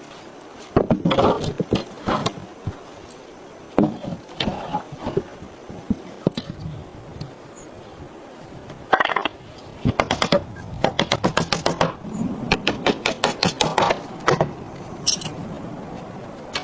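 Wood construction work: scattered wooden knocks and clatter, then from about ten seconds in a fast, even run of sharp strikes, about four or five a second, in two bursts.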